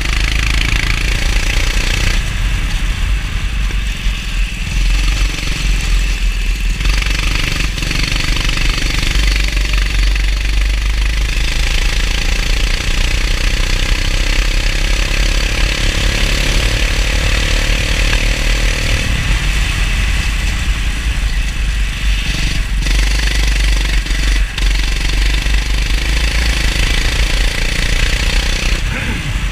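Go-kart engine running hard on a lap, its pitch climbing steadily for several seconds near the middle as the kart accelerates down a straight, over a steady hiss and a heavy low rumble.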